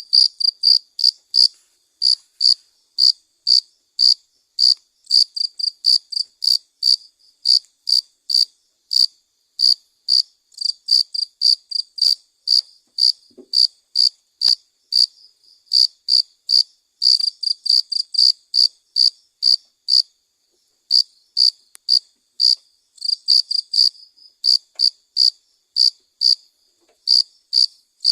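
A cricket chirping: sharp, high-pitched chirps repeated about two to three times a second, with a couple of brief pauses.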